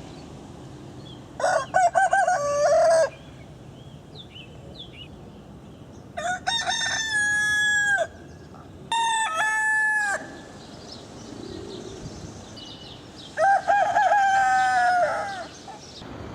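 Rooster crowing four times, a few seconds apart; each crow starts with short broken notes and ends in a long held note.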